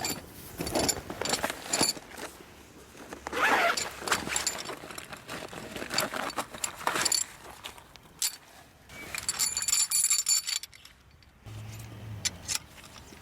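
Camping gear being handled: a series of short scraping, zipper-like pulls with light metallic jingling, dying down about 11 seconds in.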